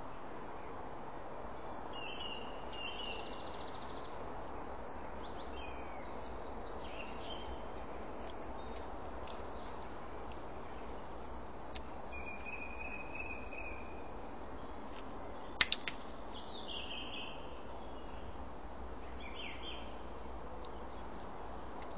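Wild birds singing and calling in short scattered phrases over a steady background hiss. A little past the middle come three sharp clicks in quick succession, the loudest sound.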